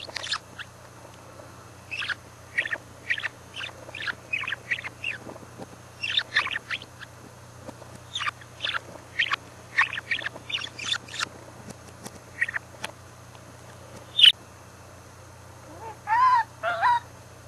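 Budgerigar chattering: a long run of short, sharp chirps, with two longer warbling calls near the end.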